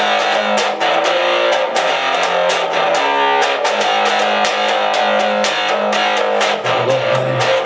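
Instrumental rock music: strummed electric guitars over bass and a steady drum beat, with the bass line dropping lower near the end.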